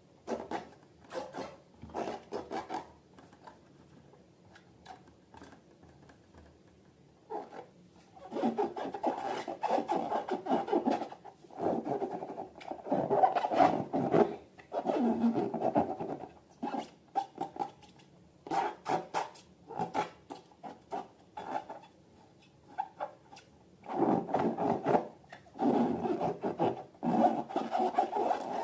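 Hands working slime and balloon materials: irregular rubbing and scraping in bursts of a second or two. It is quiet for a few seconds early on, then runs almost continuously with another short pause shortly before the end.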